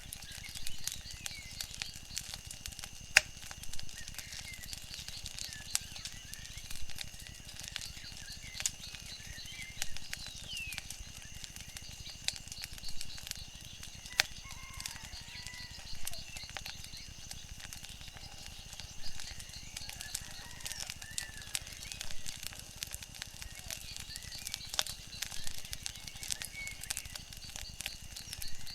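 Wood fire crackling, with scattered sharp pops, over a steady low rumble, with a few faint chirps.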